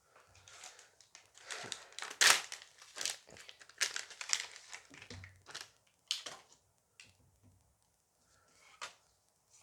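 A foil booster pack crinkling and tearing as it is ripped open and handled, in a quick run of short rustles that thins out about two thirds of the way through.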